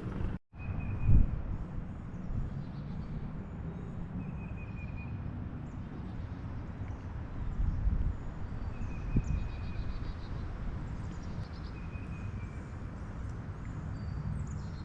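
Wind buffeting the microphone with a steady low rumble. Over it, a bird repeats a short call every few seconds, with other faint chirps higher up. A brief dropout and a thump come just after the start.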